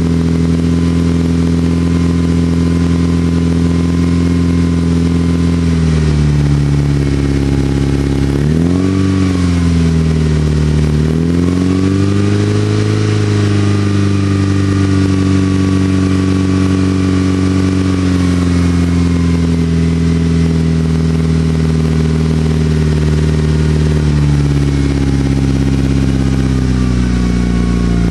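Mitsubishi Evo 8 MR's turbocharged 4G63 inline-four, breathing through a Miltek exhaust and C-Tech manifold, idling. About six seconds in the revs rise, then come a quick blip up and down and a steady hold at a higher idle for about ten seconds. Near the end it drops back to idle.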